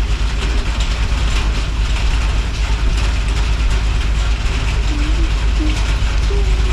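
Steady rain hissing, full of fine patter, over a constant low rumble.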